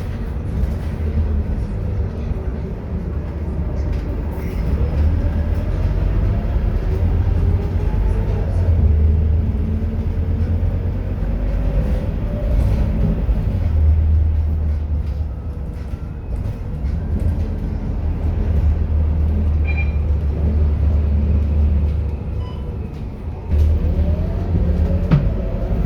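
Scania K230UB bus's diesel engine labouring and easing off as the bus pulls away, accelerates and slows, with a transmission whine that rises and falls in pitch.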